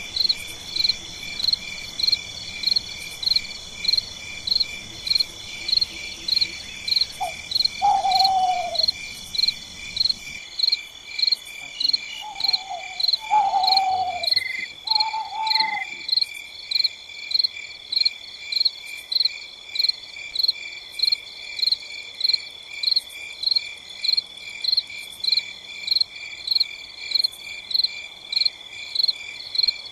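Night crickets chirping in a steady, even rhythm, nearly two chirps a second. Between about a quarter and half way through, another animal gives four or five short falling calls, and a low rumble in the background stops suddenly about a third of the way in.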